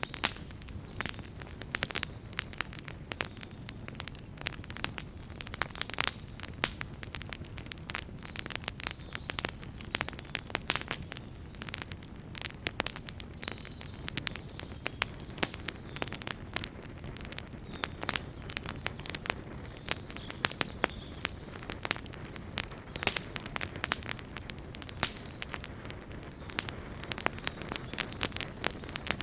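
Wood fire burning, with frequent irregular crackles and pops over a steady low rumble of flames.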